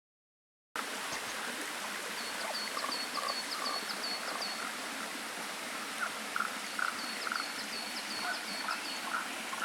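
Small mountain stream babbling steadily, cutting in under a second in, with two runs of short, quick, high-pitched calls repeating about four times a second and scattered lower chirps over the water.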